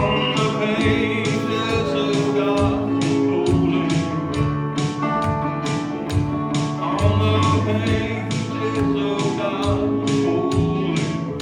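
Live country gospel music: guitars playing over a steady beat, with a voice singing.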